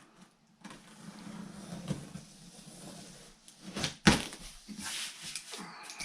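A cardboard shipping box being opened and its contents handled: rustling and scraping, with a few sharp knocks, the loudest about four seconds in.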